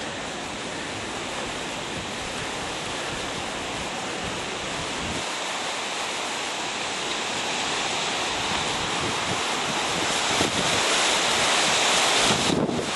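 Hurricane wind rushing steadily and buffeting the microphone, growing louder over the last few seconds.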